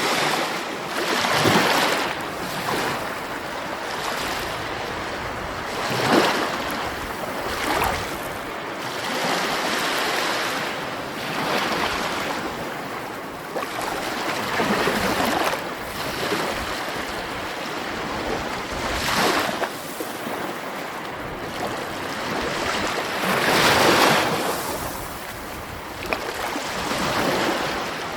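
Sea waves breaking and washing onto a shore, a steady wash of surf that swells with a new breaker every few seconds.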